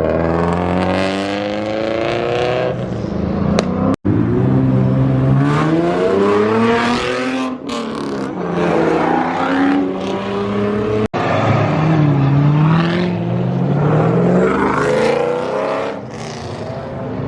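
Loud car engines accelerating hard past, their pitch climbing through the revs and dropping at gear changes, in several separate passes that cut off abruptly between them.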